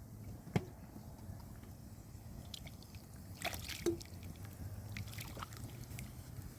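Water sloshing and dripping, with one sharp knock about half a second in and a short cluster of clicks and knocks a little past the middle.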